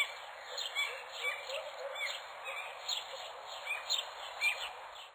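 Birds chirping over a steady outdoor hiss: short, falling calls, a few each second.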